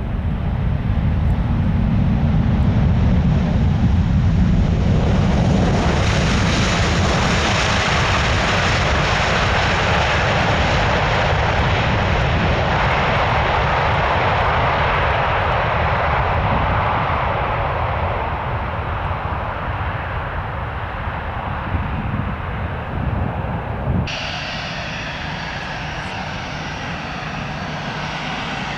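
Jet airliner's engines running loudly as it passes close by, a deep rumble joined after a few seconds by a broad rushing noise. Near the end the sound changes abruptly to a quieter, thinner aircraft engine sound.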